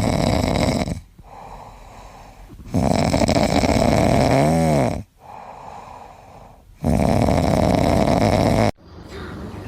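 A pet snoring in three long, loud breaths about two seconds apart. The middle one carries a short whistle that rises and falls in pitch.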